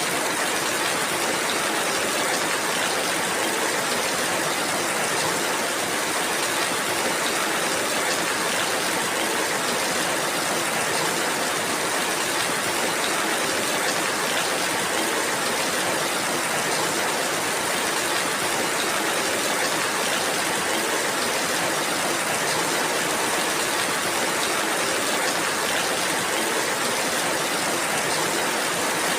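Steady rainfall, an even, unbroken hiss with no single sounds standing out.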